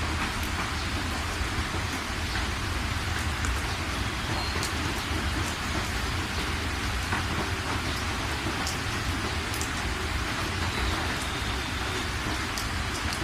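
Steady, even rain falling on a surface, with scattered individual drops ticking sharply over the continuous hiss.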